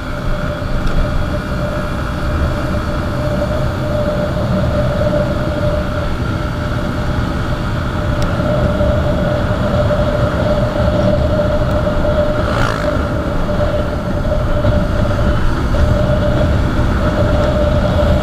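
Motorcycle riding at a steady pace: the engine drone and a steady whine under heavy wind and road noise on the microphone.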